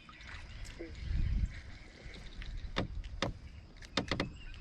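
Gear being handled in a canoe: a low bump about a second in, then a few sharp clicks and knocks.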